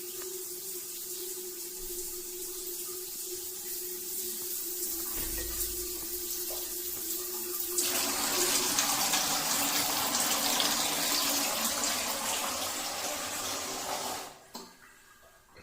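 Running water with a steady low hum under it. About halfway through the flow turns into a louder, brighter hiss, then stops abruptly near the end.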